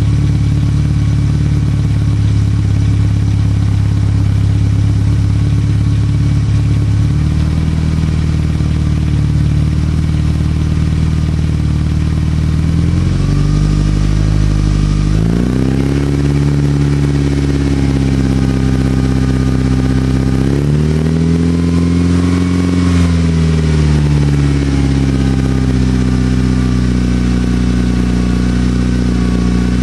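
Mitsubishi Lancer Evolution VIII MR's turbocharged four-cylinder engine, breathing through a Milltek exhaust and C-Tech manifold, free-revving while standing still. It runs at a steady low idle, steps up about a quarter of the way in, climbs to higher held revs near the middle, rises and falls once about two-thirds through, and starts rising again at the very end.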